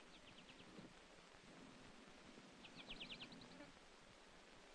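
American goldfinch's flight song: two quick runs of short chirps, a faint one at the start and a louder one about two and a half seconds in, over a steady hiss.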